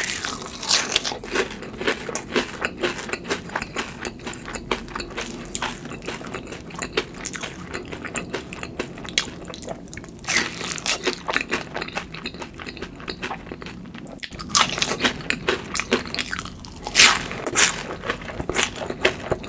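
Close-miked crunching bites and chewing of a crispy fried hash brown topped with mashed avocado, with fresh crunchy bites near the start and again about ten seconds in.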